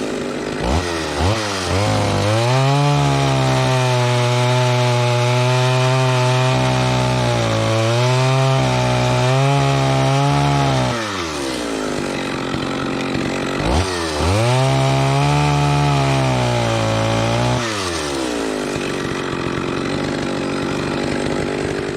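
Echo (Kioritz) 650EVL 65cc two-stroke chainsaw cutting wood. Its throttle is blipped a few times, then the engine is held at full throttle through two long cuts, dropping back to idle between them and after the second.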